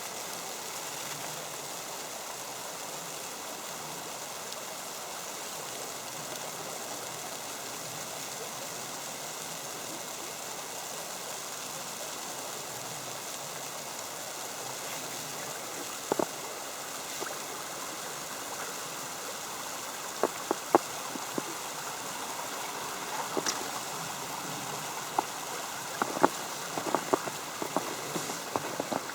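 Creek water flowing steadily, with scattered light taps from about halfway through that grow more frequent near the end.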